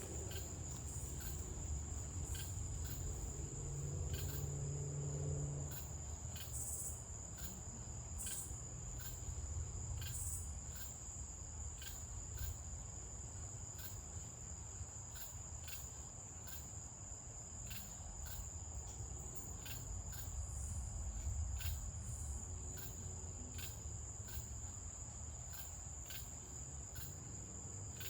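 Crickets trilling at night in one continuous high tone, with sharper chirps recurring about once a second, over a low rumble.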